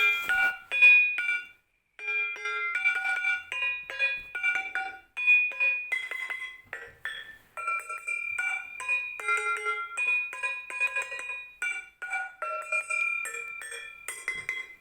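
A tuned drum played in short melodic phrases: struck, pitched notes that ring briefly, sometimes two together, with short pauses between phrases.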